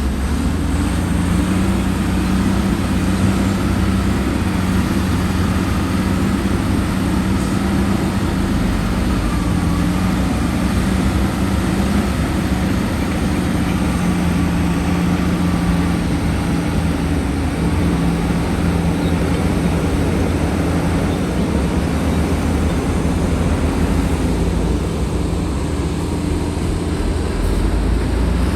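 Heavy diesel engine of earthmoving machinery running steadily, a constant low drone whose pitch shifts slightly now and then.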